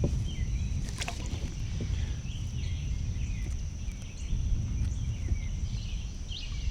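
Wind buffeting the microphone as an uneven low rumble, over a steady high insect drone and scattered bird chirps, with one sharp knock about a second in.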